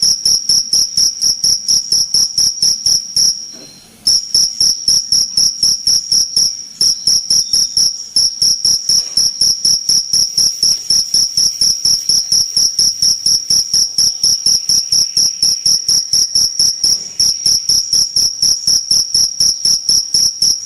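Cricket chirping vigorously in a fast, even run of high chirps, about four or five a second, breaking off briefly a few times, the longest about three seconds in.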